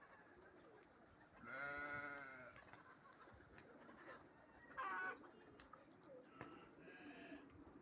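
Animal calls: a long wavering call lasting about a second, then a short louder, higher call around the middle and a weaker one near the end.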